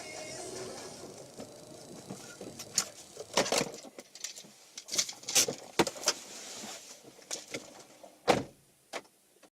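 Low steady car cabin noise, then a quick run of sharp knocks and clatters, the loudest one near the end.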